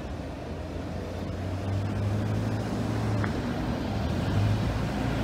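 Freight train of tank cars rumbling as it rolls away down the track, with a low hum that grows louder about two seconds in.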